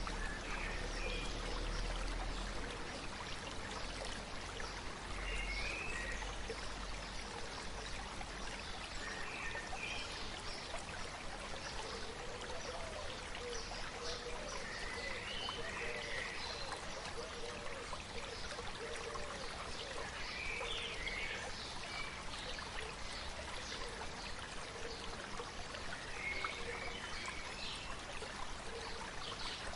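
A stream flowing steadily, with a bird giving a short call about every five seconds.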